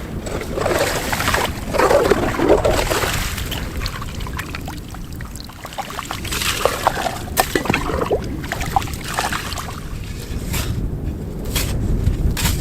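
Wind buffeting the microphone in a steady low rumble, with two spells of rustling, scraping and clicking from work in the snow.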